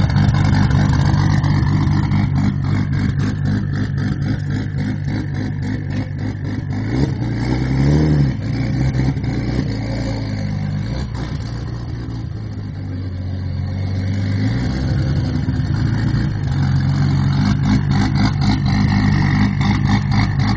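Turbocharged Toyota 7M-GTE inline-six running at idle, heard from the exhaust tip. It is revved briefly about a third of the way in, and raised again more slowly near the middle before settling back to idle.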